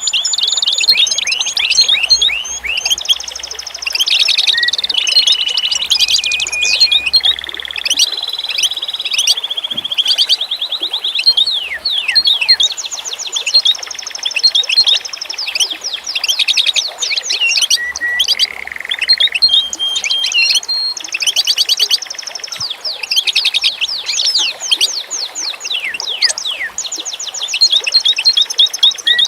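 Several songbirds singing and chirping at once, a dense, unbroken chorus of high, rapid, sweeping notes and trills.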